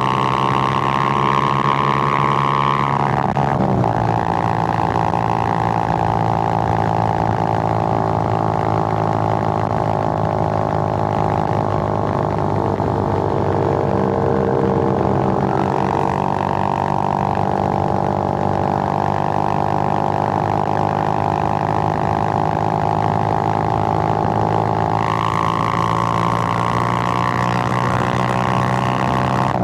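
Suzuki GN125's single-cylinder four-stroke engine running under way. Its note changes and drops about three seconds in, holds steady, then rises again near the end.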